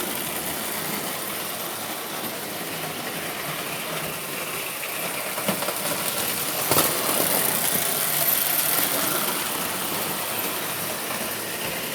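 Marx electric tin toy train running on tinplate track: a steady motor whir with rattling wheels, and one sharp click about seven seconds in.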